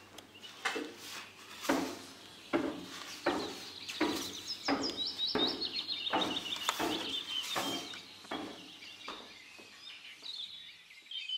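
Small birds chirping in quick high twittering phrases, thickest in the middle of the stretch, over a slow, regular knock about every three-quarters of a second.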